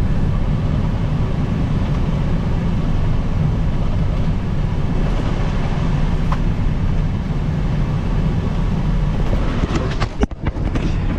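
Dump truck's diesel engine running steadily with a deep rumble as the truck drives, with a brief dip in level about ten seconds in.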